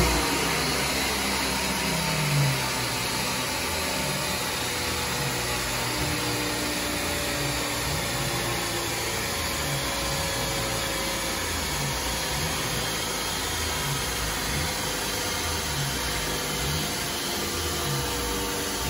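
Ford Focus ST's five-cylinder turbo engine, converted to Focus RS spec, on a rolling road: its revs fall away over the first two seconds or so after a run, then it idles under a steady rushing noise.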